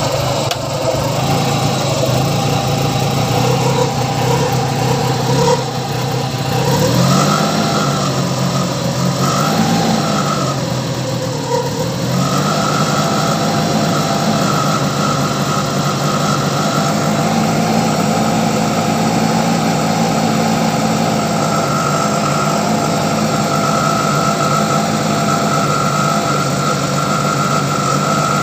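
Car engine running steadily. Its pitch rises and falls a couple of times between about 7 and 12 seconds in, then holds steady.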